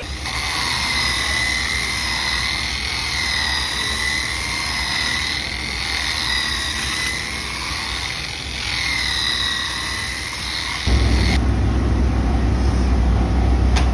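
Race car engines running, a high pitched drone that swells and falls about every second and a half. About eleven seconds in it switches abruptly to a louder, deeper engine rumble close by.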